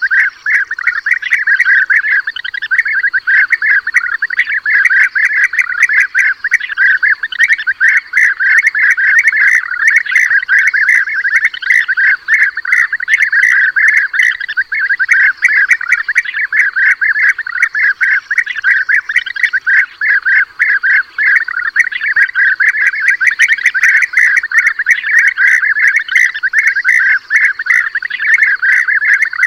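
Flock of European bee-eaters calling without pause, many overlapping calls, played as a recorded lure call for hunting bee-eaters.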